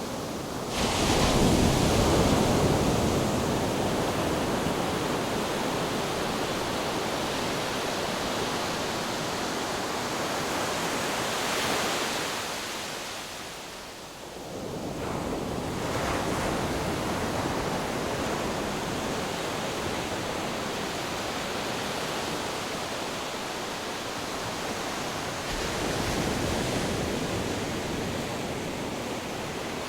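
Ocean waves and wind: a steady rushing noise that swells as waves break, surging loudest about a second in, easing off briefly near the middle, then building again.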